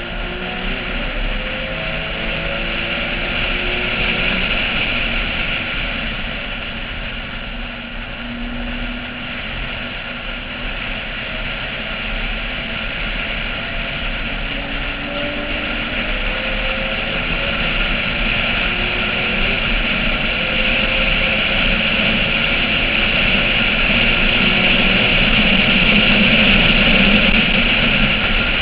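Porsche 996's flat-six engine running hard on a race track, heard from a roof-mounted camera under a steady rush of wind noise, its pitch rising and falling with the revs and growing louder toward the end.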